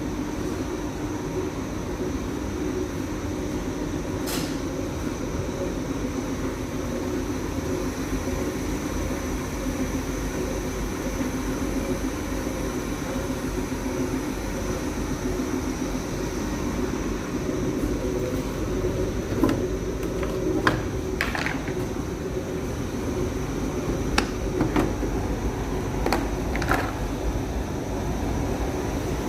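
Electrolux condenser tumble dryer running steadily: a constant machine hum with a thin high whine over it, and a few short clicks and knocks from about two-thirds of the way through.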